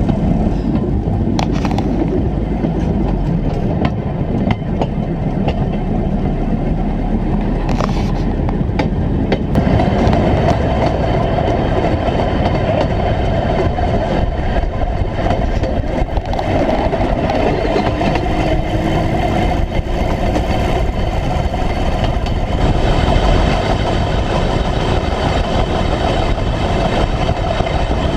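1957 Series I Land Rover on flanged railway wheels running along the rails, a steady loud engine and wheel-on-rail rumble with a few sharp clicks.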